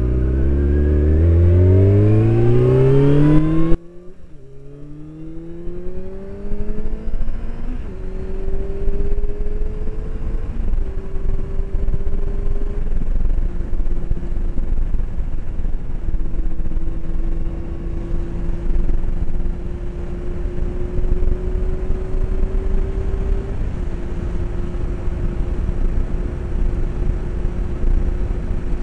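Honda CBR600 inline-four motorcycle engine accelerating hard, the revs climbing high for about four seconds and then dropping away abruptly. The revs then rise again and settle into steady cruising with small changes in pitch, with wind rushing over a helmet-mounted microphone.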